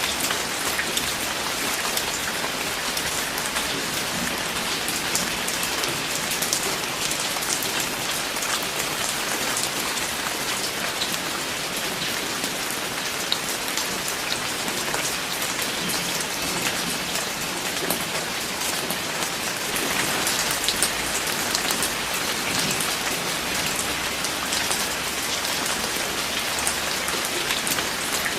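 Steady rain falling on a surface, a dense even patter with many individual drops ticking.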